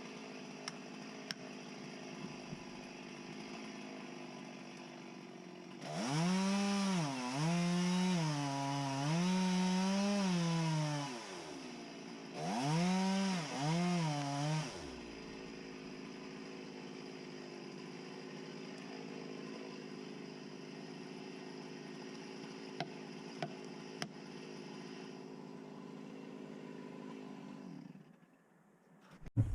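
Two-stroke chainsaw idling, opened up to full throttle twice, for about five seconds and then about two seconds, its note dipping and rising as it cuts. It falls back to idle between and after, and stops shortly before the end.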